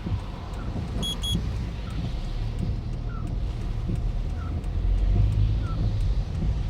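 Toyota Ractis on the move, a steady low rumble of engine and road noise, with a short double electronic beep about a second in.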